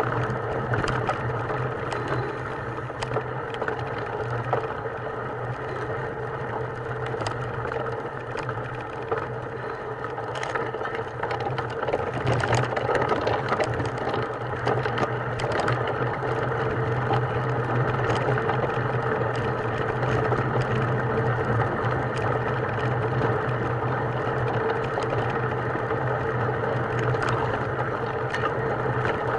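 Steady mechanical running noise: a constant low hum with light rattling clicks scattered through it.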